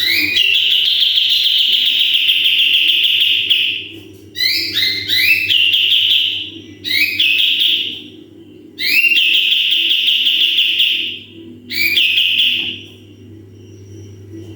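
Cream-striped bulbul (kapas tembak) singing its harsh 'tembakan' bursts. Each long buzzy call opens with quick rising notes: the first lasts about four seconds, then four shorter bursts follow with gaps between them. A faint steady low hum runs underneath.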